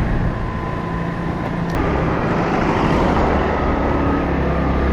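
Motorbike engine running at low speed under heavy wind noise on the microphone; a sharp click about two seconds in, after which the wind noise swells.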